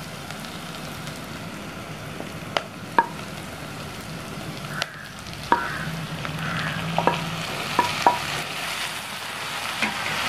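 Onions, garlic, green chillies and curry leaves sizzling in hot oil in a clay pot, with several sharp clicks and taps as chopped tomatoes are tipped in from a plate. The sizzle grows louder near the end.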